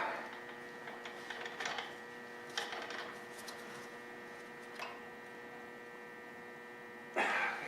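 Steady electrical mains hum, with a few short scrapes and clicks of a wrench working loose the anti-afterfire solenoid on a lawn tractor carburetor's float bowl, the last and loudest near the end.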